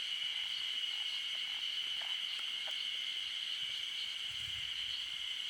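Calling frogs: a steady high-pitched trilling chorus, with a few faint separate calls about two seconds in.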